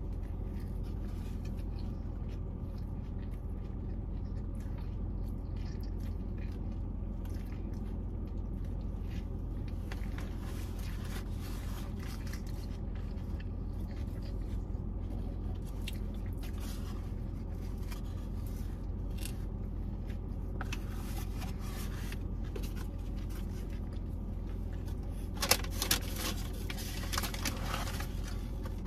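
Close-up eating of a Big Mac: biting and chewing, with small rustles and crackles from its paper wrapper and cardboard box. A louder burst of crinkling comes near the end. Under it all is a steady low hum.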